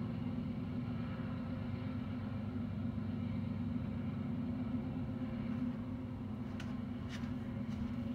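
BNSF intermodal freight train's cars rolling past with a steady low rumble. A few faint, short high clicks come in the last two seconds.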